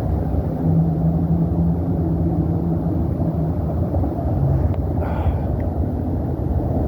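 Steady low rumble from wind on the microphone and rolling noise while riding a bicycle, with a steady hum through the first half and a brief hiss a little after the middle.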